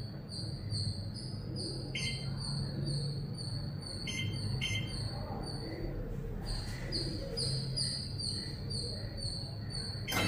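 Samsung microwave oven's control panel beeping as its settings are keyed in: three short high beeps, one about two seconds in and two in quick succession about four seconds in, over a low steady hum and a faint, fast-repeating high electronic chirping.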